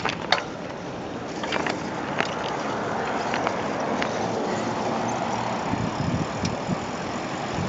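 Wind rushing over a handheld camera's microphone, with road noise, while riding a bicycle. It builds over the first two seconds and then holds steady, with a few small clicks and rattles in the first couple of seconds.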